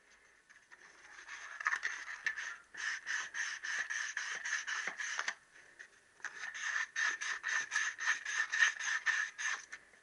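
Wet and dry abrasive paper rubbed back and forth on a crankshaft's big-end journals to dress down light ridges: two spells of quick scraping strokes, about four a second, with a short pause between them.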